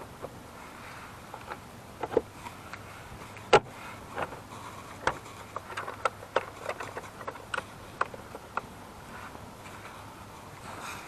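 Irregular knocks and clicks of handling gear on a bass boat and its trailer, the sharpest knock about three and a half seconds in.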